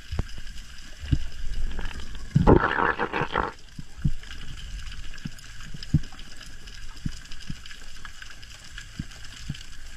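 Underwater sound picked up through an action-camera housing: scattered low knocks, faint steady high tones, and a dense bubbling burst about two and a half seconds in that lasts about a second.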